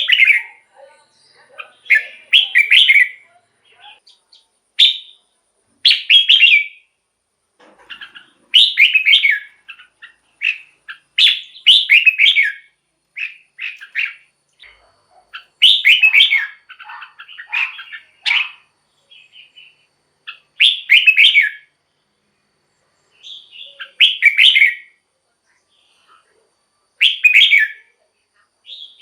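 Red-whiskered bulbul singing: short, loud warbling phrases repeated every second or two with brief pauses between them.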